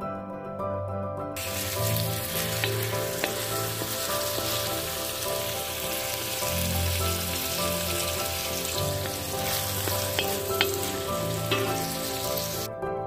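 Food sizzling as it fries in a pan, with a few sharp crackles; the sizzle starts about a second in and cuts off suddenly near the end. Background music plays underneath.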